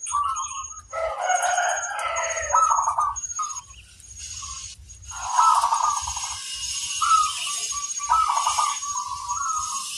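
Zebra doves (perkutut) cooing in repeated pulsed, trilling phrases. About a second in, a louder, fuller call lasts for about two seconds. A faint, high, evenly repeated chirping runs underneath.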